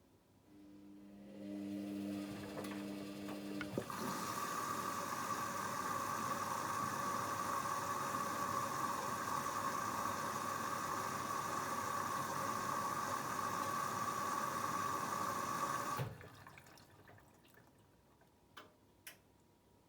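Hoover Dynamic Next washing machine taking in water. A low hum is followed by a click as the inlet valve opens, then a steady rush of water that cuts off suddenly after about twelve seconds. Two faint clicks come near the end.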